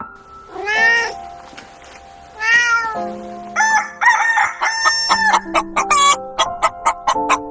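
A cat meows twice. Then a rooster crows and a chicken clucks in quick repeated notes, over background music.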